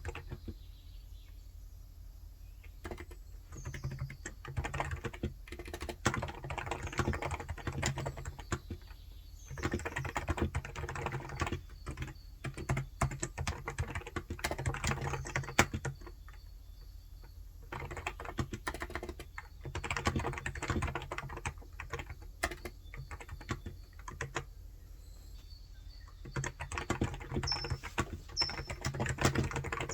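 Typing on a Cox Endeavour electrostatic capacitive (Topre-style) tenkeyless keyboard with light 35 g switches: runs of quick keystrokes broken by short pauses of a second or two.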